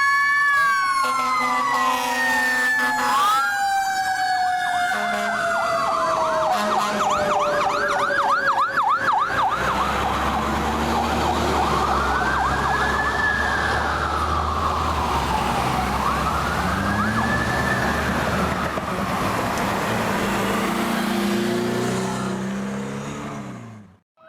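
Several emergency-vehicle sirens at once: one tone falls slowly over several seconds while others wail in slow rising and falling cycles, with a short stretch of fast yelping in between. A low truck engine rumble joins about ten seconds in, and the sound cuts off suddenly near the end.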